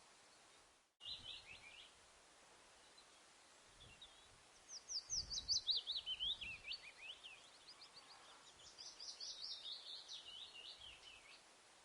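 Kingfisher calling: a short burst of quick high notes, then two long rapid trills that fall in pitch, the first starting about five seconds in and the second about three seconds later.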